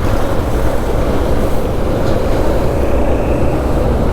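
Motorcycle on the move: steady wind rush over the microphone with the engine running underneath.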